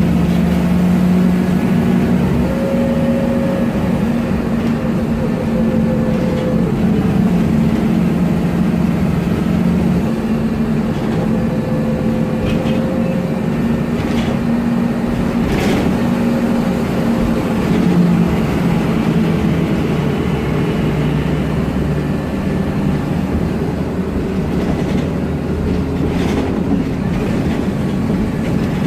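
2009 MAN Lion's Classic city bus running steadily, heard from inside. Its MAN E2876 CNG engine and ZF Ecomat 6HP504C six-speed automatic gearbox give a low, even hum, with a fainter whine that comes and goes and drifts a little in pitch.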